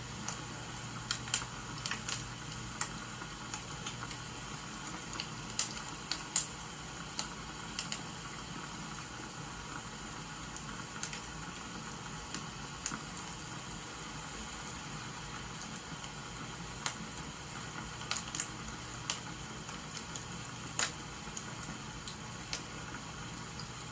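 Crackling wood fire over steady rain: sharp pops and snaps at irregular intervals above an even hiss.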